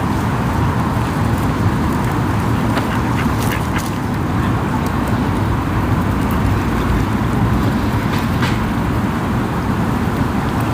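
Waterfowl calling on a lake, a few short calls about three seconds in and again near the end, over a steady low rumble.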